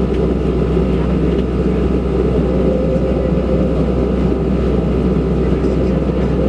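Cabin noise of a Boeing 737-700 taxiing, its CFM56-7B engines at idle: a loud, steady hum with a few constant tones held over it.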